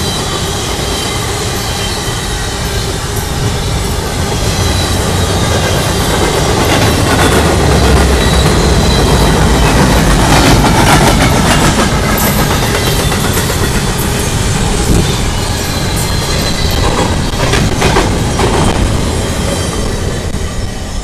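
Empty intermodal well cars of a freight train rolling past at speed: a steady rumble of steel wheels on rail with clickety-clack over the rail joints, clanks from the empty cars a little past the middle and again near the end, and a thin high wheel squeal at times.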